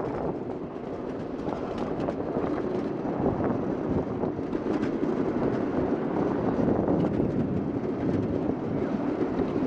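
Small ride-on train rolling along its track: a steady rumble of the wheels on the rails with faint clicks, and some wind on the microphone.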